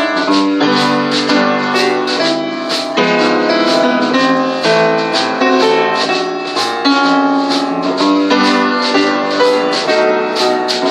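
Acoustic piano playing an instrumental passage of a 1940s pop standard, with chords changing every beat or two, accompanied by a drum kit keeping time with steady cymbal strokes.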